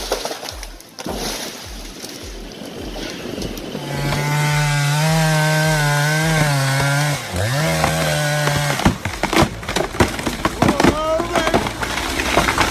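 Chainsaw running at a steady high speed for several seconds, its pitch dipping and climbing back once, followed by a run of sharp cracks and knocks.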